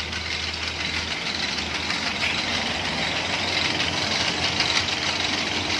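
Noodle-making machine, converted from hand crank to motor drive, running with a steady motor hum and mechanical rattle; the sound changes about a second in from a low hum to a rougher, rattling run.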